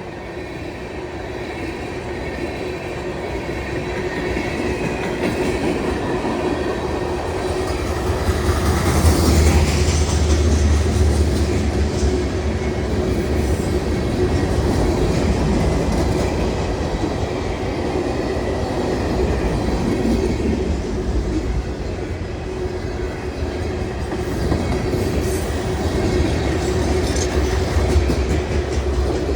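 Diesel freight train passing: the locomotives' engine rumble builds to its loudest about nine seconds in, then the freight cars roll by with a steady clickety-clack of wheels over the rail joints.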